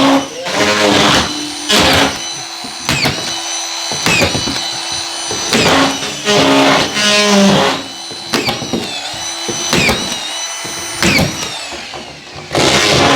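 Cordless drill or screw gun driving screws into a plasterboard ceiling sheet, in a run of short bursts with the motor whining up and stopping between each screw.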